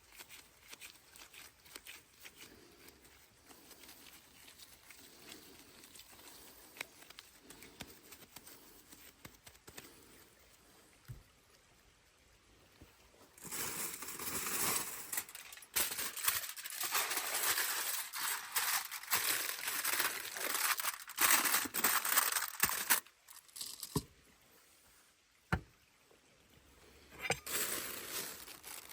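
Crinkling, rustling handling noise. It is faint with light ticks at first, then loud and uneven for several seconds from about halfway, with a few sharp clicks and a second short burst of rustling near the end.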